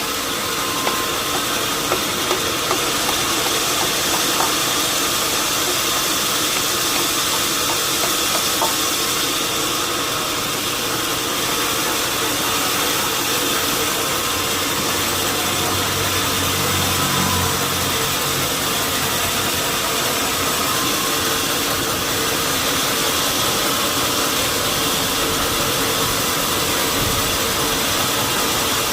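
Sawmill machinery running steadily: a constant mechanical hiss and hum, with a few light knocks in the first few seconds and a deeper engine hum rising briefly around the middle.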